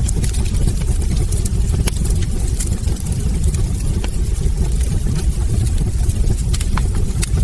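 Wood fire burning in a fireplace, crackling with frequent sharp pops scattered irregularly over a steady low rumble of the flames.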